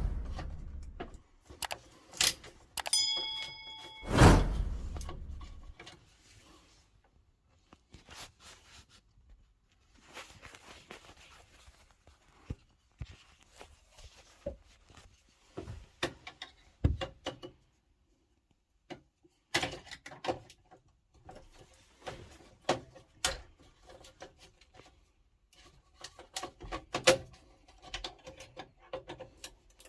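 Hand-work noises on an electric water-heater unit: a heavy thunk at the start and another about four seconds in, a brief metallic ring near three seconds, then scattered clicks, taps and light rattles of tools and parts being handled.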